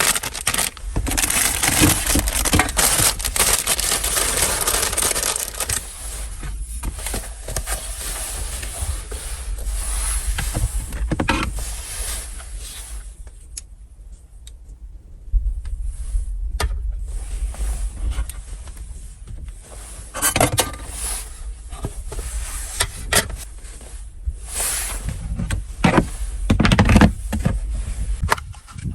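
Strong wind gusting and rumbling, with repeated scraping, rubbing and light clattering of objects being handled at close range. The wind eases to a lull about halfway through, then picks up again.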